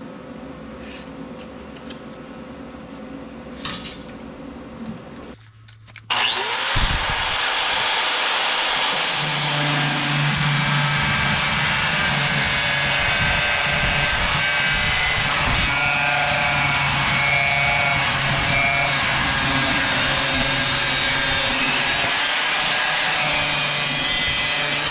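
Quiet handling clicks over a low hum, then about six seconds in a power tool spins up, its pitch rising and levelling off. It works the steel steadily with a loud, continuous harsh hiss, consistent with an angle grinder or cut-off wheel on metal.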